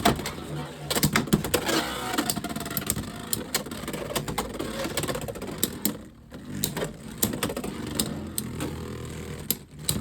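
Two Beyblade X tops, Unicorn Sting and Knight Shield, spinning and battling in a plastic stadium: a steady whirr of the tips on the floor, broken by frequent sharp clicks as the tops hit each other and the stadium wall.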